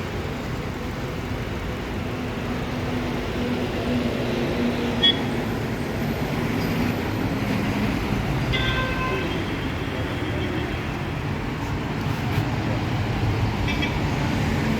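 A vehicle engine running steadily with a low rumble, with one sharp knock about five seconds in and a few brief high tones.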